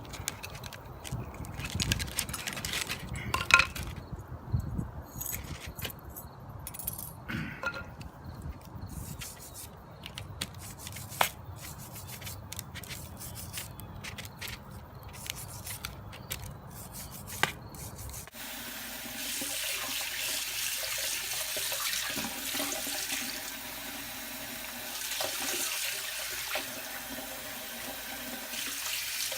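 Scraping and small metallic clicks and knocks as a rusty steel grenade part is worked over with a brush and pick after electrolysis. About two-thirds of the way through, this cuts to a water tap running steadily as the part is rinsed off.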